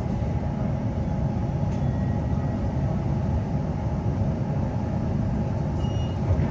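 Steady low rumble of a Queensland Rail NGR electric multiple unit heard from inside the carriage, wheels and running gear on the track as the train pulls into a station.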